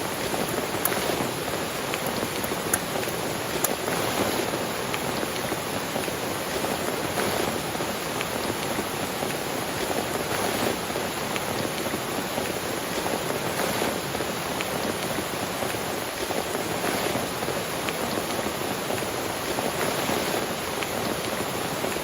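Steady rain falling on a tent, with scattered sharp drop taps through it.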